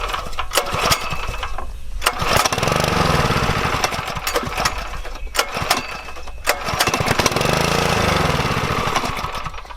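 Small gas engine of a pressure washer being pull-started with its recoil cord: it catches and runs for a couple of seconds, then dies away. This happens twice, without the engine staying running.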